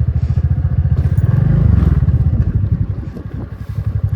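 Motorcycle engine running with a fast, even low pulse, swelling louder for a moment about a second in and easing off past the middle.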